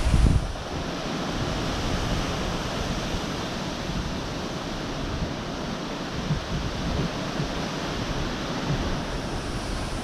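Severe thunderstorm wind gusting with heavy rain: a steady rushing hiss, with low buffeting of the wind on the microphone that is strongest right at the start.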